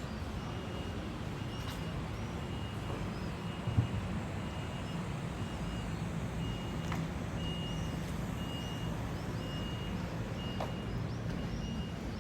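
Steady low machinery hum, with a short high-pitched beep repeating about twice a second. A single sharp knock sounds about four seconds in.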